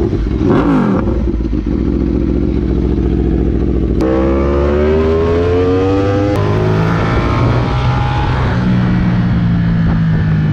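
Motorcycle engine running under load: a steady engine note for about four seconds, then the revs climb, with a few abrupt changes in pitch as the bike accelerates.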